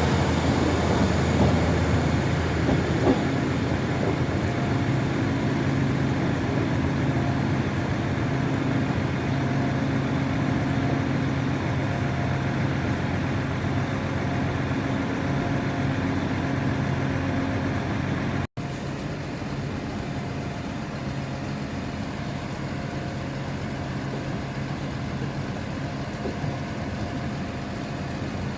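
A train's engine running steadily, a low, even hum with a constant pitch. It drops out for an instant about two-thirds of the way through, then carries on a little quieter.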